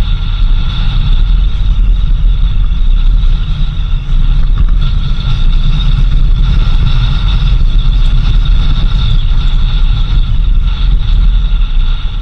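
A vehicle driving: a steady, loud low rumble of engine and road noise.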